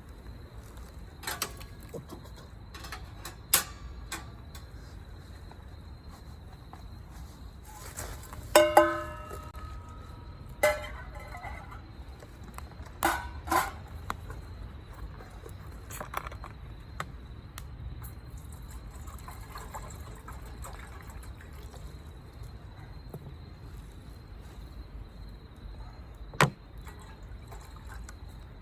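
Scattered clinks and knocks of metal camp cookware, a few of them ringing briefly, over a steady low background.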